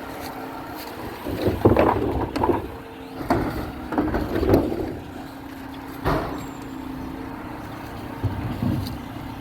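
Garbage truck running with a steady hum, broken by several loud clattering bursts about one and a half, four and six seconds in.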